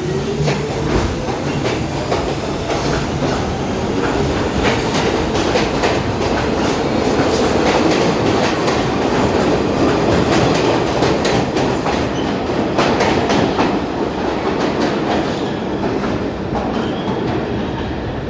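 New York City Subway R46 train running through the station, its wheels clattering over rail joints. It is loudest in the middle and eases off near the end.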